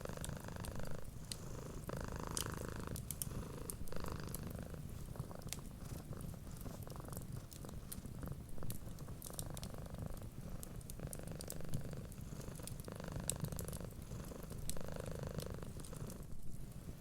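A cat purring steadily, swelling and easing with each breath, with the small snapping clicks of a crackling wood fire over it.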